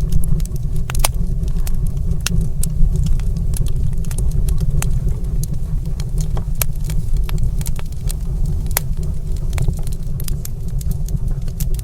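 Wood fire in a stone fireplace crackling: irregular sharp pops and snaps over a steady low rumble.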